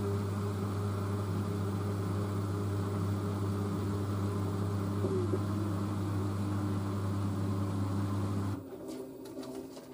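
LG DirectDrive washer dryer spinning at high speed in its final spin, a steady motor hum with a faint higher whine. About eight and a half seconds in the hum cuts off abruptly and the sound falls away, leaving a few faint clicks.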